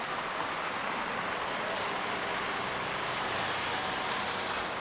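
Steady street traffic noise: a continuous wash of vehicle engines and road noise with a faint low engine hum underneath.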